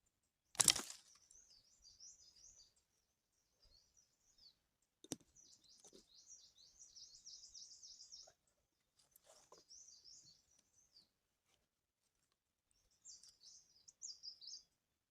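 Small birds chirping in quick, high-pitched twittering phrases, in several bouts with short gaps. A short loud noise about half a second in, the loudest sound here, and a sharp click about five seconds in.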